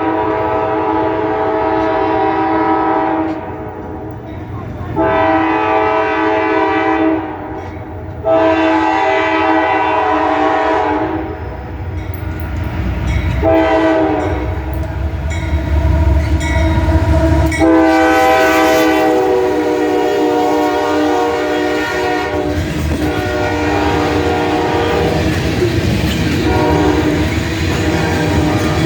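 Freight locomotive air horn sounding a chord in a series of blasts: two long, a third long, a short one, then a final long blast that fades slowly, the pattern of a grade-crossing warning. The rumble of the approaching train swells beneath it and peaks just before the last blast.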